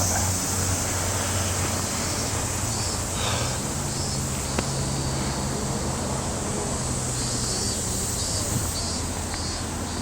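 Outdoor street ambience: a steady low hum of traffic, with a loud high insect drone that fades about a second in, and a few groups of short high chirps.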